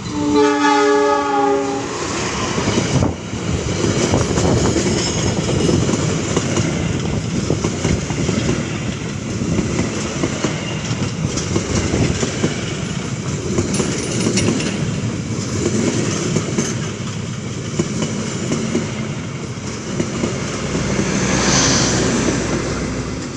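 Diesel locomotive's horn sounding one blast of about a second and a half as it comes level, then the passenger train's coaches rushing close past with their wheels clattering over the rail joints.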